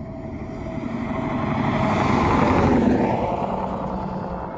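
A vehicle passing at highway speed. Its tyre and engine noise swells to a peak about two and a half seconds in and then fades away.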